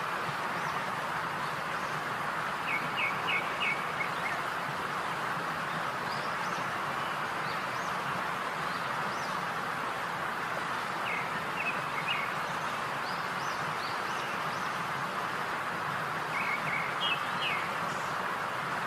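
Small birds chirping in three short bursts of quick, high notes over a steady hiss.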